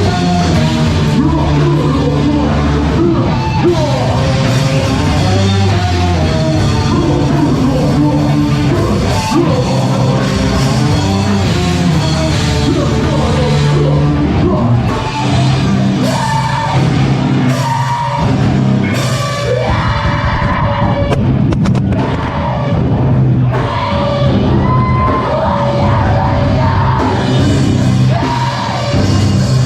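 Live band playing loud heavy rock with vocals over drums and guitars.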